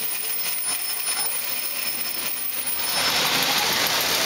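Vintage Lionel electric model train running on its track, a steady whir and rattle that grows louder about three seconds in.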